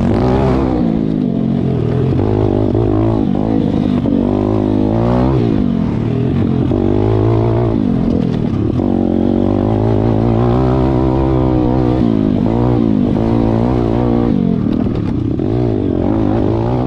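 Pit bike engines revving hard and changing pitch over and over as the bikes accelerate, shift and back off on a motocross track, with more than one engine heard at once.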